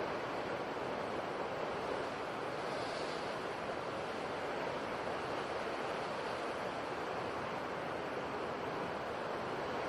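Steady, unbroken rush of sea surf.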